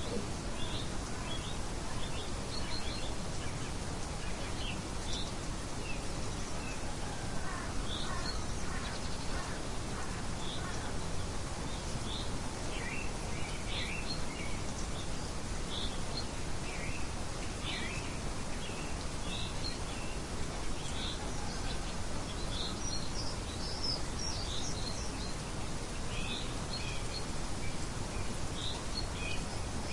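Steady rain hiss with many small birds chirping over it, short calls coming every second or so throughout and thicker near the end.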